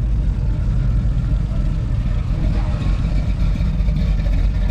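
Car engine running at low revs as a car drives out of the show.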